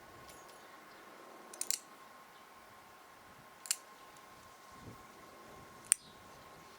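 Cat nail clippers snipping through a cat's claws: a few short, sharp clicks, a quick cluster of them early, then single snips about two seconds apart.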